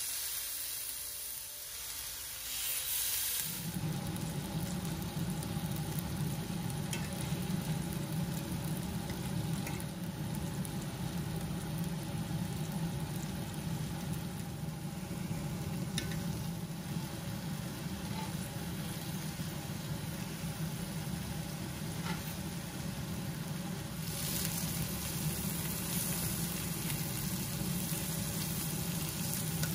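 Seasoned chicken tenders sizzling and frying in hot oil in a cast-iron skillet, with a few light clicks of tongs against the pan. A low steady hum joins a few seconds in, and the sizzle grows louder near the end.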